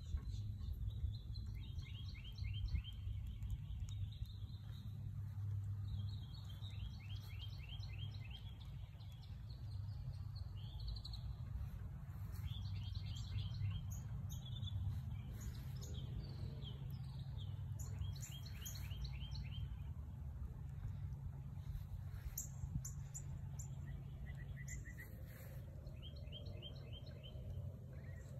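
Songbirds singing: repeated runs of quick, sloping chirps, one run after another every few seconds, over a steady low rumble.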